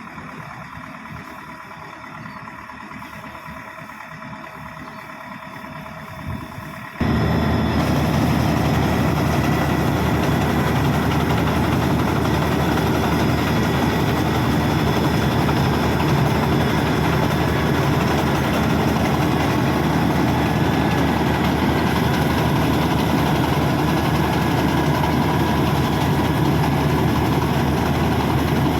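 Bimo Maxxi 102 rice combine harvester running steadily. About seven seconds in, the sound abruptly jumps much louder and fuller, with a steady low engine drone and machinery noise.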